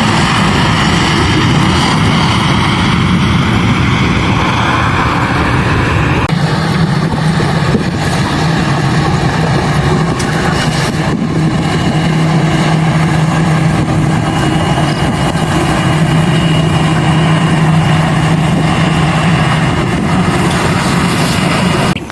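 Loud, steady engine noise: a low hum with a faint high whine over a broad rush, with no change in pitch.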